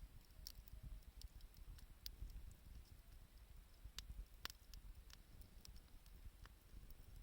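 Wood campfire crackling faintly, with irregular small pops and snaps over a low rumble.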